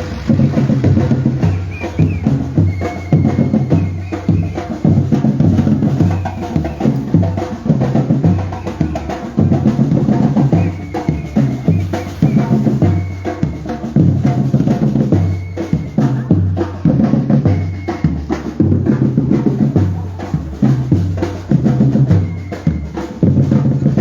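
Batucada drum group playing: deep bass drums beating a steady, driving rhythm under fast snare drum strokes.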